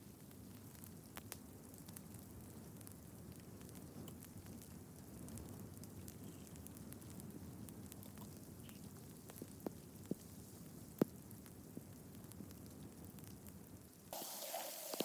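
Wood fire burning quietly, a steady low rustle broken by a few sharp, isolated crackles and pops. About a second before the end it gives way abruptly to a different, brighter steady noise.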